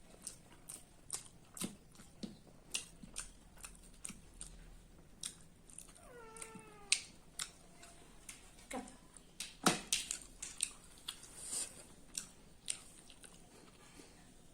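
A house cat meows once about six seconds in, a drawn-out call that falls in pitch, among close-up mouth clicks and smacks of someone eating.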